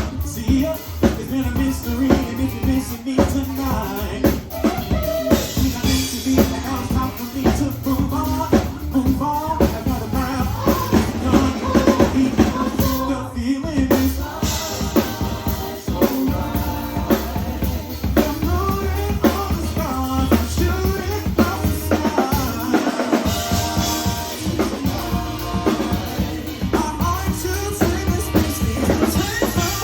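Live band playing, with a full drum kit keeping a steady beat under bass and melodic lines.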